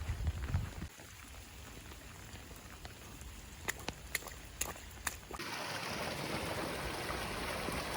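Rain falling, with a few sharp taps around the middle, then a louder steady hiss of rain that starts abruptly a little after five seconds in.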